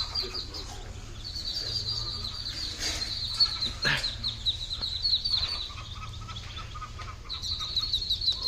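A brood of Muscovy ducklings peeping, many rapid high chirps overlapping, easing off briefly near the end before starting again. A single sharp knock about four seconds in.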